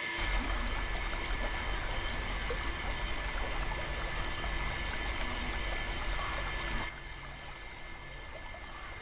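Water pouring and splashing from a small electric water pump's spray, over a low motor hum; it drops quieter about seven seconds in.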